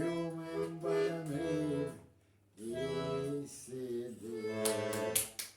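Garmon (Russian button accordion) playing a folk-song melody, with a man singing along. There is a short break about two seconds in.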